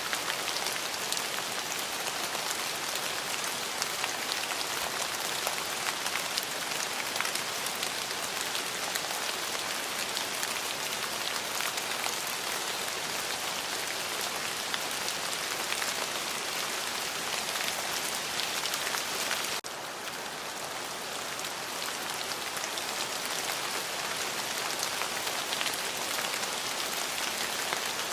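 Steady heavy rain falling, a dense even hiss made of countless individual drop hits. No thunder. About two-thirds of the way in the level dips suddenly, then builds back.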